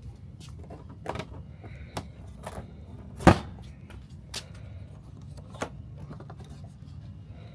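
Latch clicks and lid knocks as the cover of a Yamaha CS60 synthesizer is unfastened and opened: a string of separate clicks and knocks, the loudest about three seconds in.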